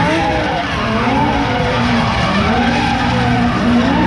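Drift cars' engines revving up and down again and again over the continuous skid of spinning tyres.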